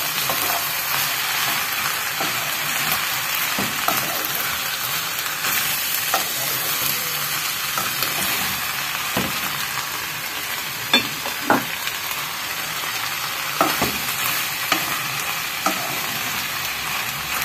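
A filling of diced sausage, corn and peas frying in a pan with a steady sizzle, stirred with a wooden spoon that knocks against the pan now and then, several times in the second half.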